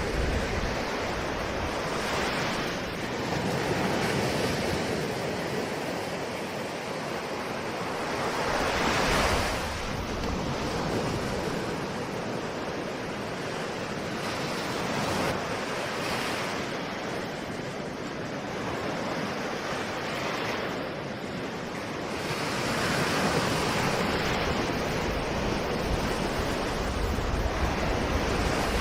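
Ocean waves breaking and washing on a shore, a steady surf that swells and eases every few seconds, with a louder wave about nine seconds in.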